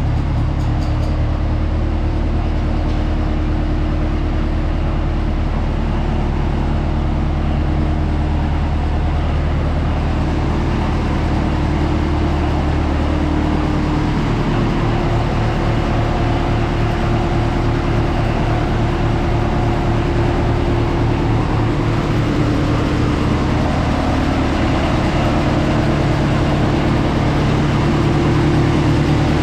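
Oliver 66 diesel tractor's four-cylinder diesel engine idling steadily, freshly restarted on new oil.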